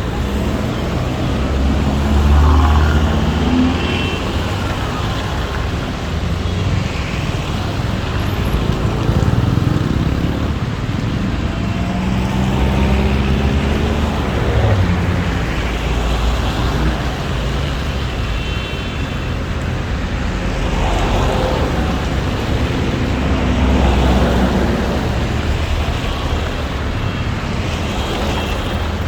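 City street traffic: cars and trucks passing close by. Engine rumble and tyre noise swell louder several times as vehicles go by.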